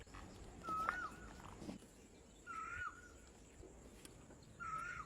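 An animal's short call with a wavering pitch, repeated three times about two seconds apart, over faint background noise.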